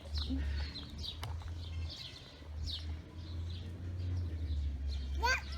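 Small birds chirping in short, quick downward chirps over a steady low rumble. Near the end there is a short, high, bending cry.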